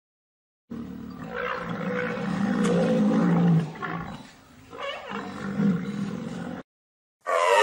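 Rhinoceros calling: a long, rough, low call of about three seconds, then after a brief dip a shorter second call that cuts off suddenly.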